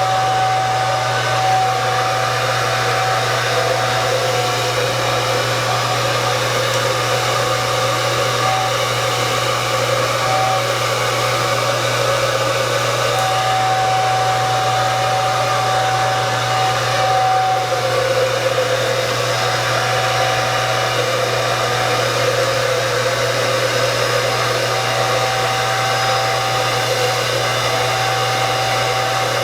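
Handheld hair dryer blowing steadily, with a constant hum and a fainter whistle that comes and goes.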